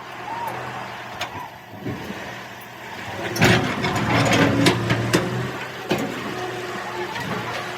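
Heavy truck's diesel engine running steadily, with a louder burst of clattering and several sharp knocks from about three and a half seconds in.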